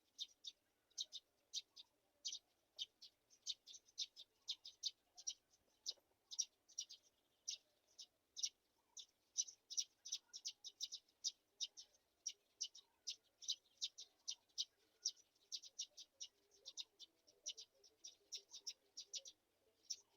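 Black-shouldered kite chicks calling: a steady run of short, high-pitched chirps, about three or four a second, unbroken throughout.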